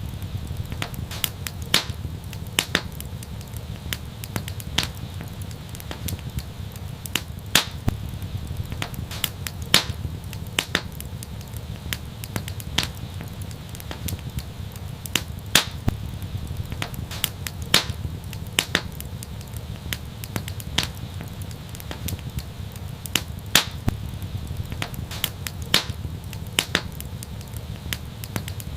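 Wood fire crackling: irregular sharp pops and snaps, a few each second, over a steady low rumble of the burning.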